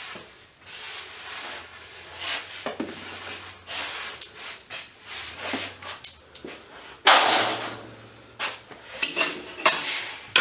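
Scrap metal parts being handled and set down on a workbench: scattered knocks and scrapes, a louder clatter about seven seconds in, and ringing metallic clinks near the end.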